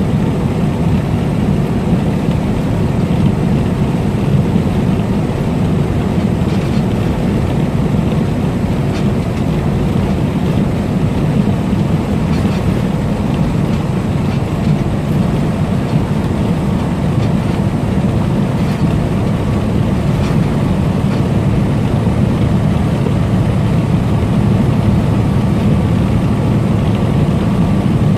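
Semi-truck cab on the move: a steady drone of the diesel engine and road noise, even and unbroken.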